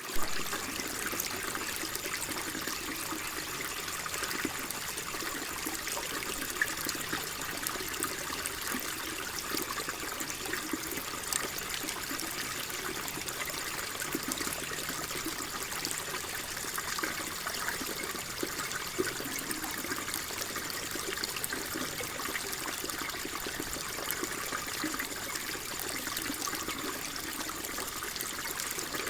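Water flowing and trickling steadily, a continuous even splashing hiss with many fine droplet crackles and no pauses.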